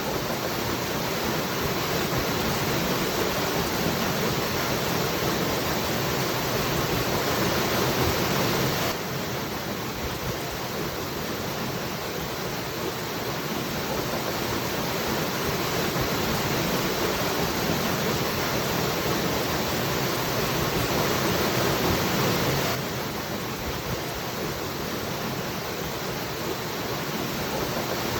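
Waterfall rushing in a steady, even roar of falling water, dropping abruptly a little in level twice, about a third of the way in and again near the end.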